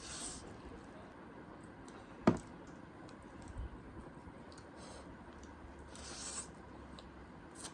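Quiet eating sounds at the table during a noodle meal: soft hissy sounds near the start and again about six seconds in, a few faint clicks, and one sharp knock a little over two seconds in.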